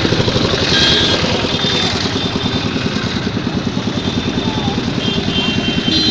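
Motorcycle engine idling close by, a loud, steady, rapid putter.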